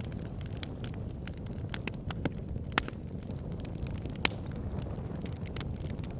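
Wood fire burning in a fireplace: a steady low rumble of flames with irregular sharp crackles and pops, two louder pops near the middle.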